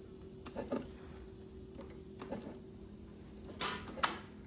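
Faint metal clicks and scrapes of tools prying at a seized lawnmower engine's crankshaft and connecting rod. A louder scrape and a sharp click come near the end, over a steady low hum.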